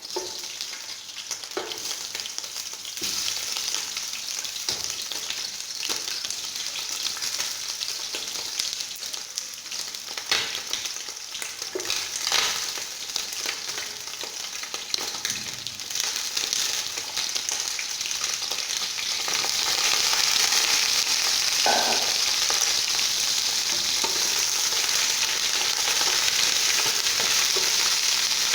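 Pieces of boiled chicken sizzling and frying in hot cooking oil, a steady hiss with a few sharp knocks of stirring in the pan. The sizzle grows louder about two-thirds of the way through.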